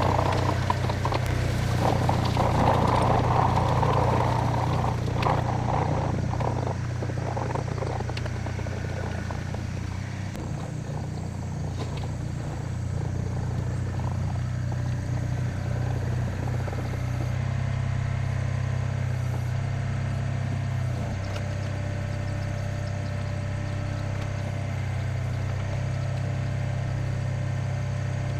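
A diesel engine running steadily, with metallic clattering and knocking over the first several seconds.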